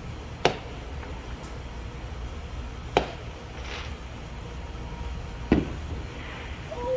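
Fireworks going off in the neighborhood: three sharp pops, about two and a half seconds apart, over a steady low background rumble.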